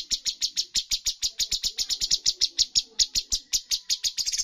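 Cucak cungkok songbird singing an unbroken rapid-fire run of short, sharp, high chirps, about ten a second.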